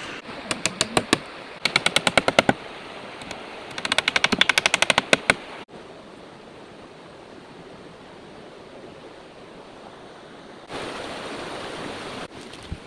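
Steady hiss of heavy rain, with three quick runs of sharp rattling clicks in the first half, about ten a second. The rain grows louder for a moment near the end.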